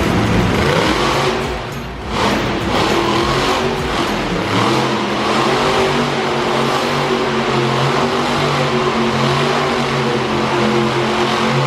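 Monster truck engine running and revving.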